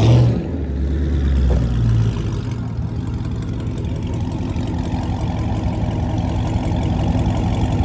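Car engines running at a car meet: a loud low engine swell in the first couple of seconds, then a steady low rumble.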